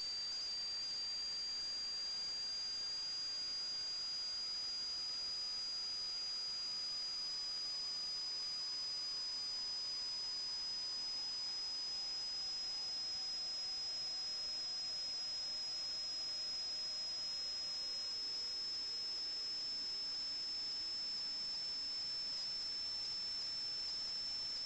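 Steady high-pitched electronic whine, with a second high tone slowly sinking toward it and a fainter tone gliding steadily lower throughout.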